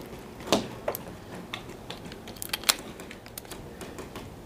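Irregular clicks and sharp knocks from a paintball marker and its magazine being handled while the gun is jamming, a few louder snaps among lighter ticks.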